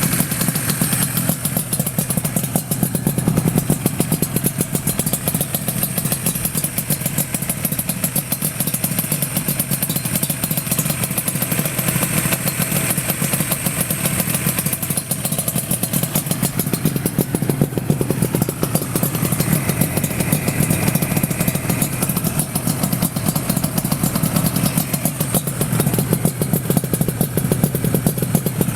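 Yamaha RZ with an RZ350 liquid-cooled two-stroke parallel-twin engine, idling steadily.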